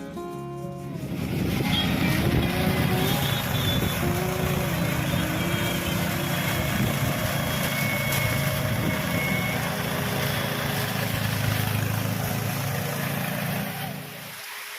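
A motor engine running steadily at high revs, with a dense noisy hiss over it; it stops shortly before the end.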